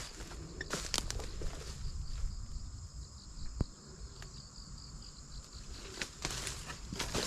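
Steady chorus of autumn field insects, crickets, shrilling high and continuous, with a few short rustles near the start and again near the end.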